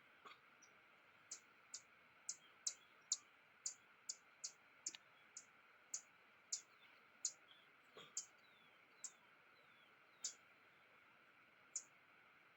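Faint, short, high-pitched chirps from a small bird, repeated irregularly one or two times a second against a quiet background.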